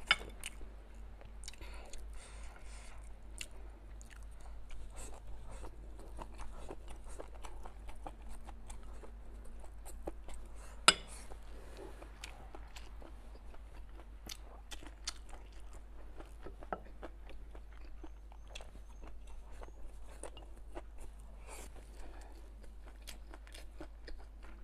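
A person chewing and crunching a mouthful of stir-fried hot and sour chicken giblets up close, a steady run of small wet crunches and clicks, with one sharper, louder click about eleven seconds in.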